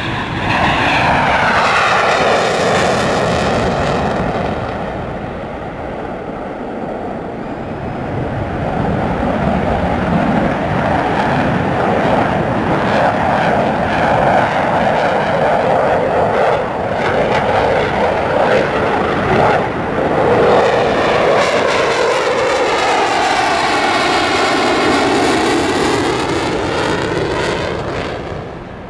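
Eurofighter Typhoon's twin EJ200 turbofan jet engines running loud as the fighter flies by. There is a sweeping, phasing pitch near the start and again in the last third as it passes, and the sound falls away near the end.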